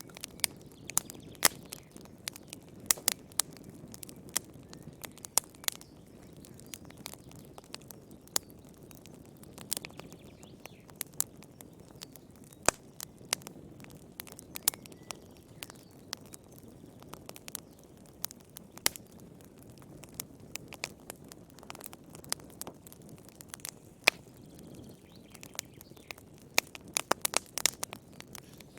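Wood fire burning in a fireplace: a low steady rumble of flames with sharp pops and crackles at irregular intervals, coming thick and fast near the end.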